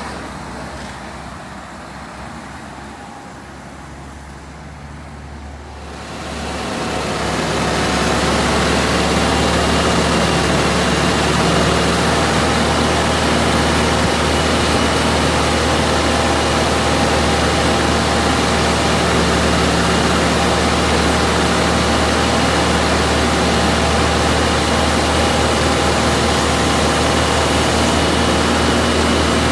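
A large engine running, quieter for the first few seconds, then coming up strongly about six seconds in and holding steady, with a faint steady whine over it.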